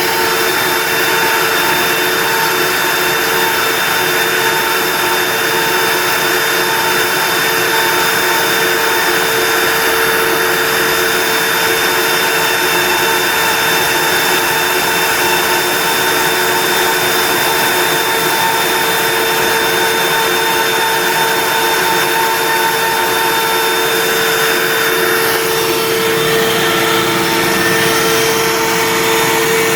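WorkBee CNC router running, its spindle motor giving a steady whine over a rushing hiss.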